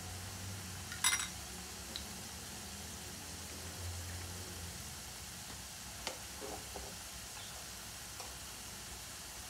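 Potato cubes frying in oil in a nonstick pan: a soft, steady sizzle. A sharp clink about a second in and a few light clicks later come from a fork against the glass bowl of beaten eggs.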